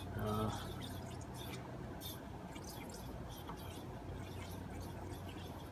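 Refrigerant flowing from a can of R-134a through the charging hose into the AC low-side port with the engine off, during an initial fill: a steady hiss with scattered faint ticks.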